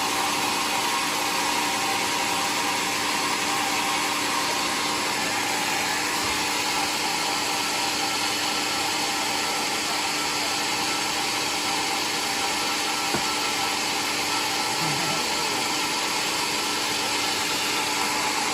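Homemade sawmill's saw running steadily, plausibly cutting through a waru log into planks: a continuous, even machine noise with a few steady tones in it.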